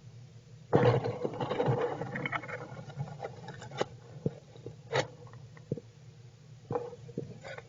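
Squirrels moving against each other and their bedding: a burst of rustling and scratching just under a second in, then scattered scrapes and clicks.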